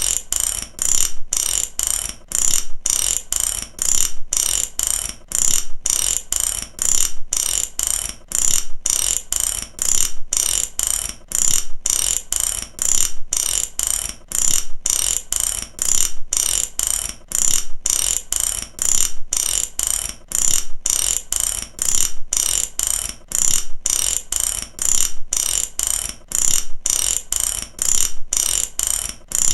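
Mechanical ratchet clicking over and over in a steady repeating rhythm, each stroke a quick run of sharp clicks.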